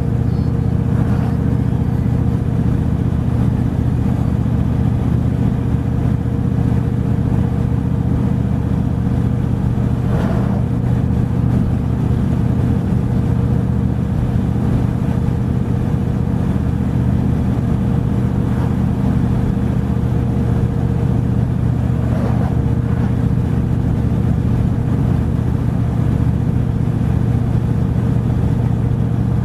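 Truck driving at a steady speed: an even engine and road drone with a constant hum, holding the same level throughout.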